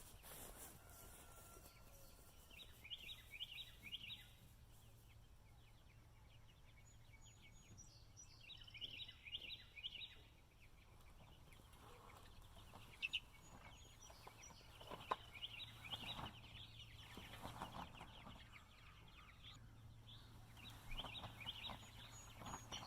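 A flock of young meat chicks peeping and chirping faintly, in short runs of rapid high peeps every few seconds, with a couple of sharp knocks about halfway through.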